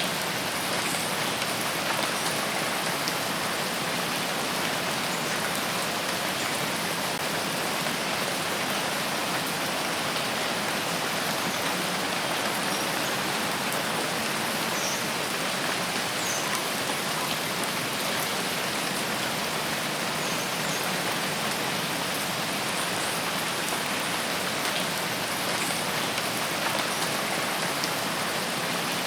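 Steady rain falling in a rain forest, an even, unbroken hiss of drops.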